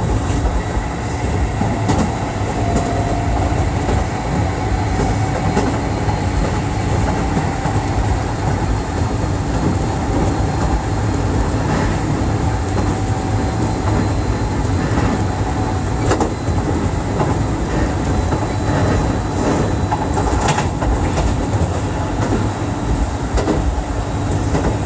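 Keisei 3400 series electric train, riding on the running gear of the first Skyliner, running at speed: a steady rumble with a faint whine and a few sharp clicks scattered through.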